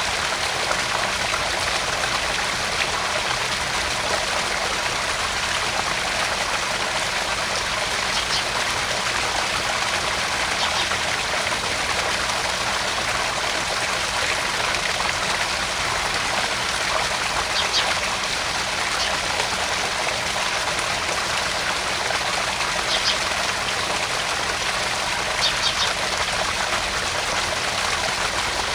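Small garden-pond waterfall: water splashing and trickling steadily into the pond, with a few faint high splashing ticks.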